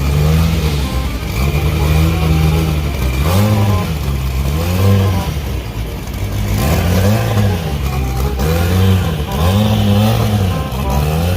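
Car engine revving, its pitch rising and falling again and again, about once a second.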